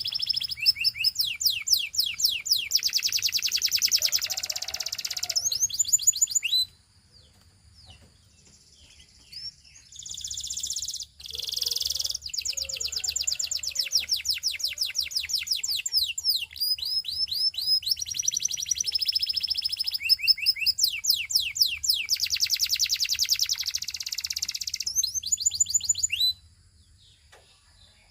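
Belgian singing canary singing long phrases of fast, rapidly repeated high trills. The song breaks off for a few seconds about seven seconds in, resumes, and stops again near the end.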